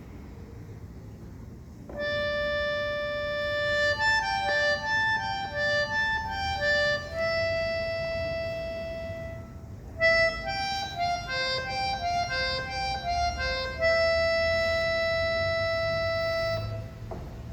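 A tune played on a harmonica-like reed instrument, in two phrases. Each phrase has long held notes and runs of quicker notes, and the tune starts about two seconds in and stops shortly before the end.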